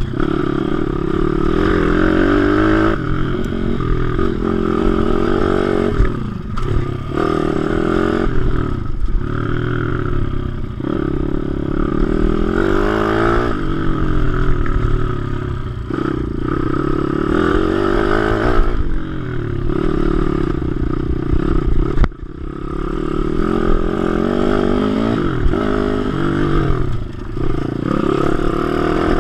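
WPB 155/160 pit bike's single-cylinder four-stroke engine revving hard on track. It climbs in pitch and drops back every few seconds as it shifts gears and rolls off, with a brief sharp drop in revs about 22 seconds in.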